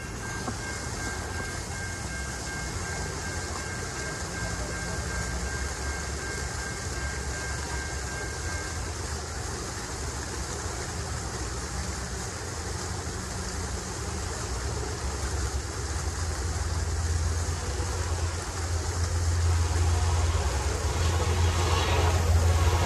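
An approaching train's low rumble builds over the last several seconds and grows steadily louder. Before that, the grade-crossing warning bell gives a steady two-pitch ringing that stops about nine seconds in.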